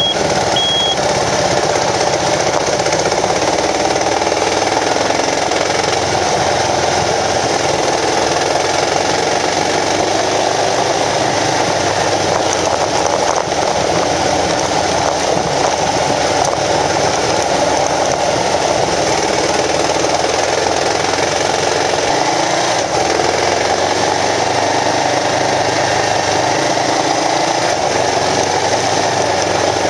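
Kawasaki KLR650's single-cylinder four-stroke engine running steadily under way on a gravel road, its engine speed shifting slightly a few times, with road and wind noise over it. A short repeated high beep sounds at the very start.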